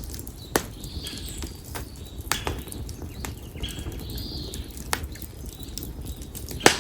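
Split konara oak firewood burning in an open campfire, popping with sharp cracks every second or two, the loudest near the end, over a steady low hiss of the fire. A bird calls several times with short arching chirps.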